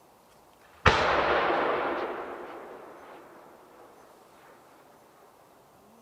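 A single heavy boom from a large fireworks shell about a second in, its rolling echo fading away over about three seconds.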